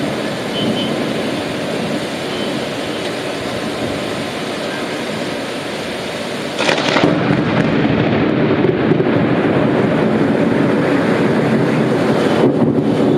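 Heavy rain falling as a steady hiss. About halfway through, a low rumble comes in suddenly and the sound stays louder to the end.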